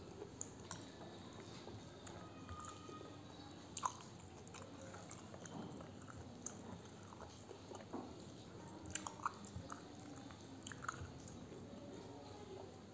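Faint close-up chewing of spicy pork and rice, with scattered small wet mouth clicks and smacks and one sharper click about four seconds in.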